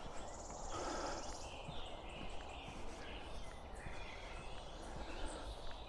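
Quiet outdoor ambience: a low steady rumble with faint bird calls and the light, irregular ticks of footsteps on the road.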